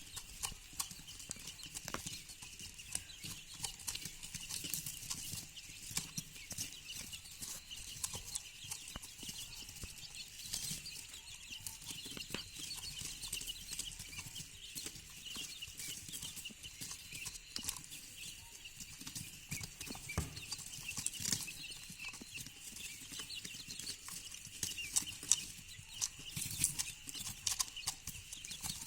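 Quail chicks peeping continuously and high-pitched, many short calls overlapping, as chicks do when separated from the hen that hatched and brooded them. Scattered sharp clicks and taps run through the calls.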